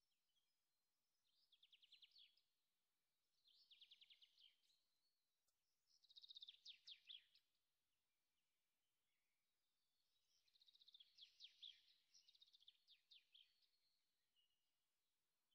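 Faint bird song: short trills of rapid high chirps, each about a second long, repeating every few seconds, with a longer run of them about two-thirds of the way through.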